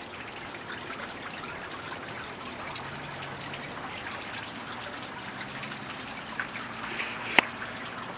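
Steady rain falling and dripping: an even hiss scattered with many small drop ticks, and one sharp tap a little past seven seconds in.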